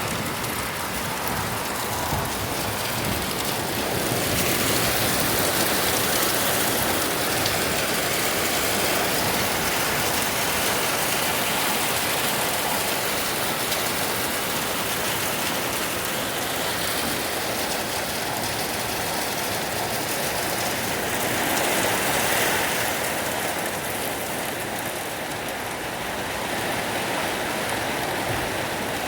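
Heavy rain mixed with hail pouring down in a steady dense hiss, swelling a little a few seconds in and again near the end.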